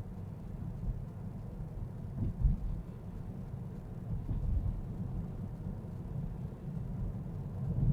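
Low, steady road and tyre rumble of an electric Tesla driving through town, heard from inside the car, with a low thump about two and a half seconds in.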